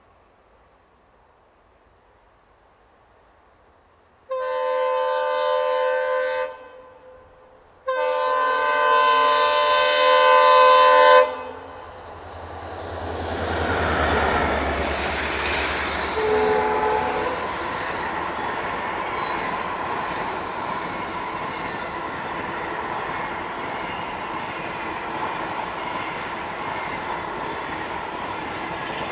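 Indian Railways locomotive horn sounding twice, a short blast and then a longer one, each a chord of several tones. The train then passes, a steady rumble and rattle of the coaches with a clickety-clack of the wheels.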